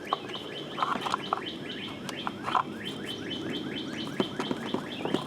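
A bird chirping over and over, short rising chirps about three a second, with a few light knocks from parts being handled.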